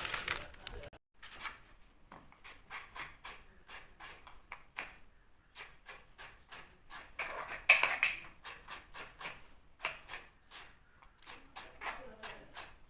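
Light clicks and taps of kitchen work, a few a second, with a brief louder scrape about eight seconds in.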